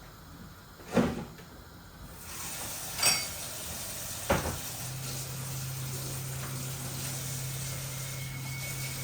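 Kitchen clatter: a knock about a second in, a ringing metal clank about three seconds in, and another knock, over a rising hiss. About five seconds in a steady low hum starts and keeps going.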